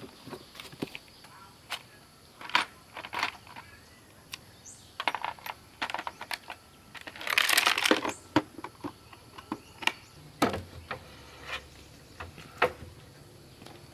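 Irregular clicks and light knocks of small hard objects being handled, with a brief scraping rustle about seven seconds in.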